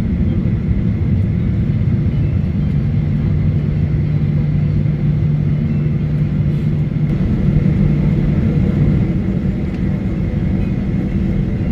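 Steady cabin rumble of a Boeing 737-900ER with its CFM56-7B engines running, heard from inside the cabin; a low hum swells a few seconds in and eases near the end.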